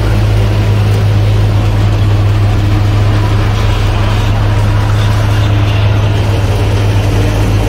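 Vehicle engine running steadily, a loud low drone that holds one pitch throughout.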